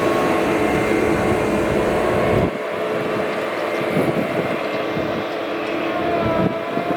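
Rham DT32 32-ton battery-electric underground dump truck running, its electric drive giving several steady whining tones over a noisy rumble. The low rumble drops away suddenly about two and a half seconds in, and one of the tones shifts slightly in pitch near the end.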